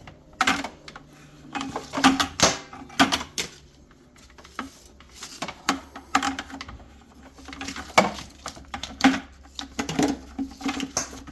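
Irregular clicks, knocks and light clatter of hose fittings and a small pump being handled and connected, over a faint steady low hum.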